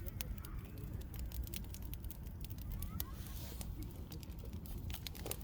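Wood campfire crackling, with sharp irregular pops over a steady low rumble.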